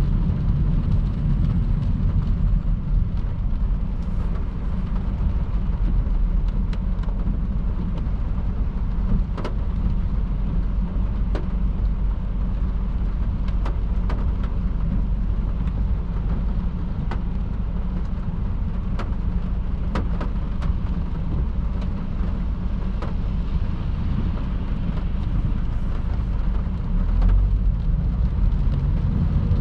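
Car driving at motorway speed in heavy rain: a steady low rumble of tyres on wet road, with scattered sharp ticks of raindrops striking the car.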